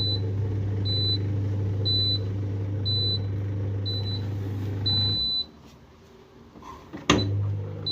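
Electrolux dishwasher beeping: short high-pitched beeps about once a second, one held longer near five seconds, over a steady motor hum. The hum cuts out about five seconds in, a sharp click follows about two seconds later, and the hum starts again.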